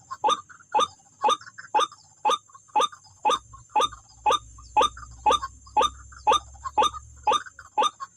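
White-breasted waterhen (wak-wak bird) calling a long, regular run of short 'wak' notes, about two a second.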